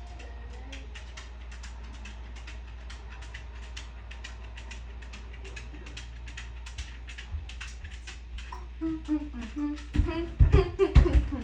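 Regular ticking, about three ticks a second, over a steady low hum; near the end a person's voice comes in, humming or vocalizing with a few loud thumps.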